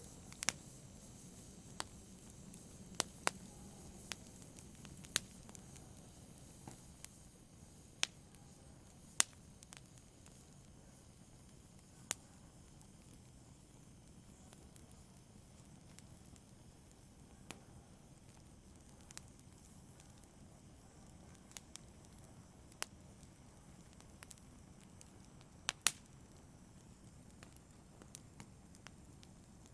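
Wood campfire crackling: sharp, irregular pops over the soft, steady sound of the flames. The pops come every second or so at first and grow sparser after about twelve seconds, with one louder pop near the end.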